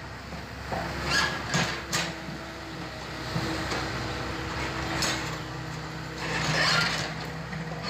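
Excavator engine running steadily, with several sharp knocks and scrapes about a second in, near two seconds and around five seconds, and a louder scraping stretch near the end.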